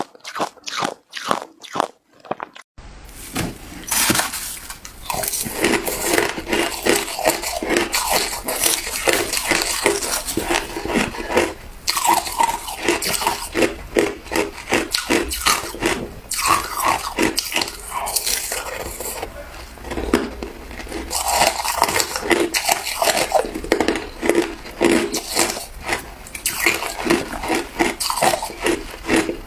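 Hard ice being bitten and chewed close to the microphone: a few separate sharp crunches, then from about three seconds in continuous, crowded crunching over a faint steady low hum.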